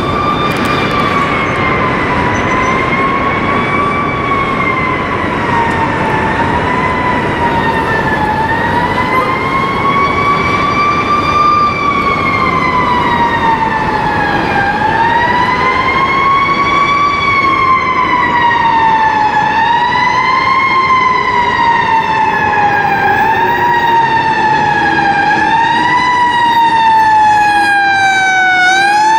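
Fire engine's siren wailing, its pitch rising and falling in slow sweeps at first and then in quicker sweeps of about two seconds, over the steady rumble of the truck and road noise.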